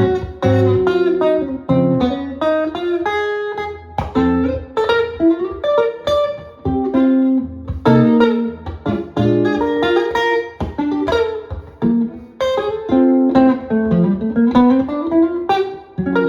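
Solo jazz guitar playing busy lines of plucked single notes mixed with chords, a bass line moving under the melody and climbing steadily near the end.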